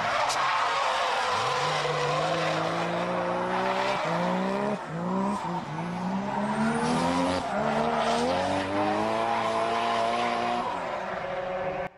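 Turbocharged 1JZ straight-six of a Toyota Soarer drift car revving hard under full throttle, its pitch climbing, dropping sharply several times as the throttle is lifted, then climbing again, with tyres squealing. It cuts off suddenly near the end.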